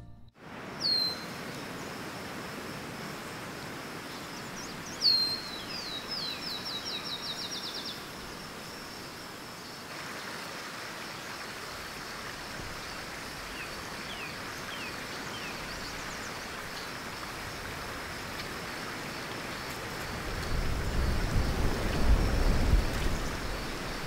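Outdoor nature ambience: a steady rushing noise with a faint high hum, and a songbird calling. There is one sharp falling note about a second in, a fast run of falling chirps from about five to eight seconds, and a few fainter chirps later. A low rumble builds over the last few seconds.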